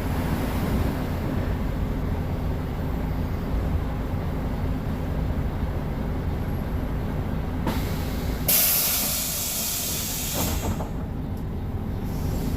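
Mercedes-Benz O500MA BlueTec 5 articulated bus's diesel engine running with a steady low rumble, with a loud hiss of compressed air from the bus's pneumatic system breaking in about two-thirds of the way through for two or three seconds, then dying away.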